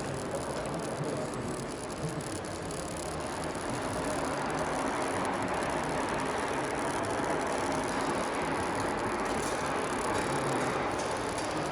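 Steady mechanical noise of a square-tube roll forming machine running, an even dense noise with no distinct beats that grows slightly louder about four seconds in.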